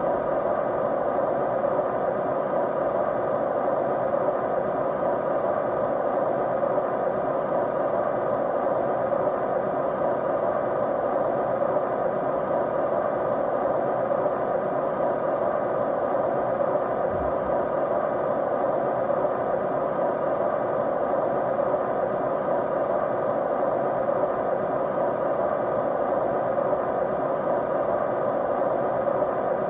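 Steady, unchanging white noise, strongest in the middle range, with a brief low bump about seventeen seconds in.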